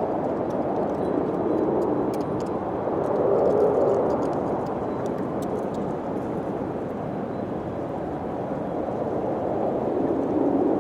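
Wind blowing steadily, gusting up about three seconds in and again near the end, with faint scattered clicks in the first half.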